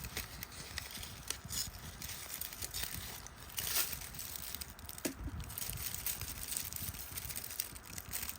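Hands handling and rustling a small decorative garland and other craft materials on a tabletop: irregular light rustles with a few small clicks and knocks.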